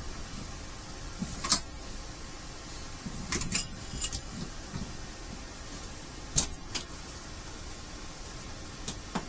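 Sharp metal clinks and clanks of a steel trap being handled, a few scattered knocks, the loudest about a second and a half and about six seconds in.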